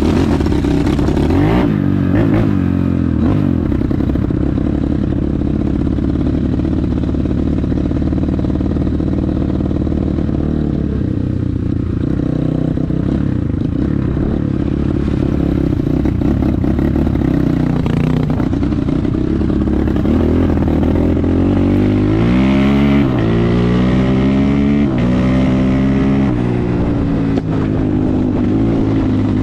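Enduro motorcycle engine running under way, held fairly steady at first, then revving up and down several times through the gears in the last third.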